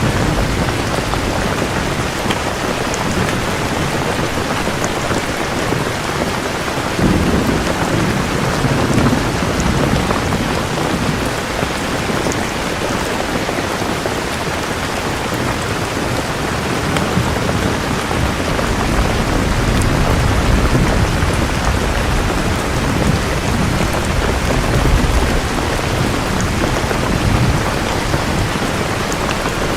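Steady rain falling, with low rolls of thunder rumbling under it: one about seven seconds in and a longer one in the second half.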